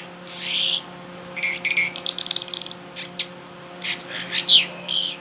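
A songbird calling in a string of short raspy notes and quick downward chirps, with a high buzzy trill about two seconds in, over a steady low hum.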